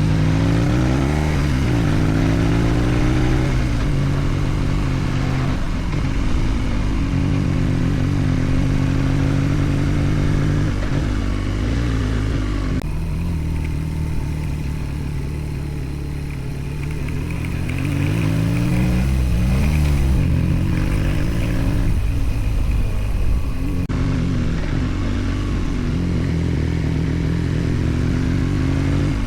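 Motorcycle engine running under way, its revs climbing through the gears near the start, easing off about halfway through, then rising again as the bike accelerates.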